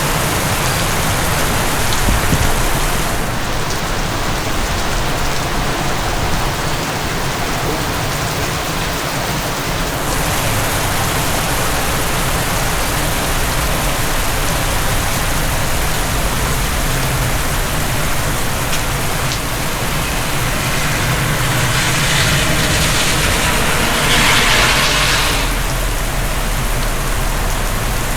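Heavy rain pouring steadily, growing heavier for a few seconds near the end.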